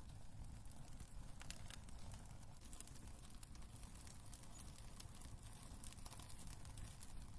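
Wood fire burning in a fireplace, crackling: scattered sharp pops and snaps over a low steady rumble of the flames.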